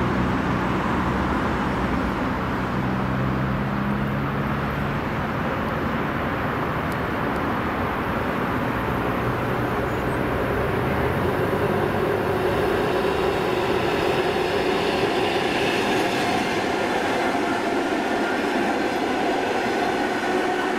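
A train running past with a steady rumble of wheels on rail. A low hum in the first few seconds gives way to several higher steady whining tones from about two-thirds of the way in.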